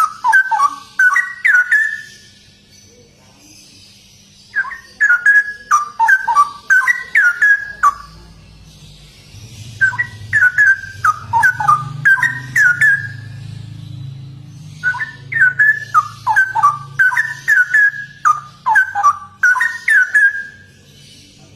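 Straw-headed bulbul (cucak rowo) singing its rapid, bubbling whistled song in four phrases of a few seconds each, with short pauses between them. A faint low hum runs underneath.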